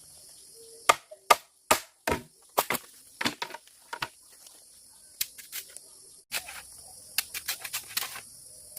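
Wood being chopped with a blade in a series of sharp strikes. The first few fall evenly, about two or three a second, then come in irregular clusters.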